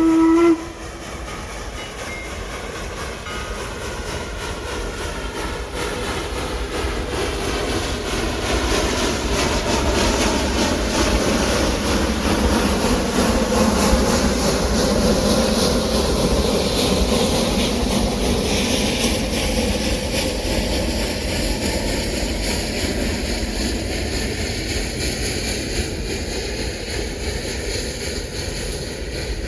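Narrow-gauge steam train rolling past, its wheels clattering on the rails, growing louder to a peak about halfway through and then easing off. A steam whistle blast cuts off just after the start.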